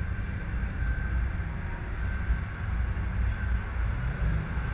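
Car idling at a standstill: a steady low rumble, with a faint high hum above it.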